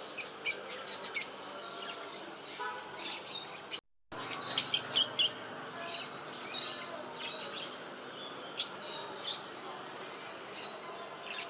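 Pet birds chirping: quick clusters of sharp, high chirps, with one burst near the start and a louder run about four and a half seconds in, then scattered single chirps. There is a brief moment of silence just before the second burst.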